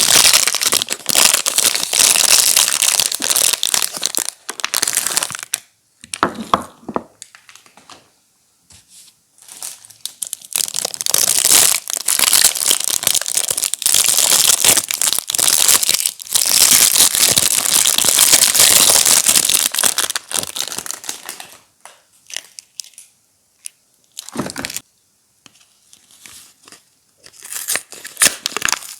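Soap bar wrappers being crinkled and torn open by hand, in long spells of dense crackling with quieter pauses between them.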